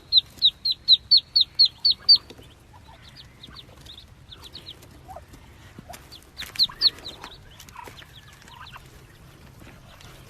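Ducklings peeping: a fast, regular run of short, high peeps, about four a second, for the first two seconds. Then scattered fainter peeps follow, with another louder cluster about six and a half seconds in.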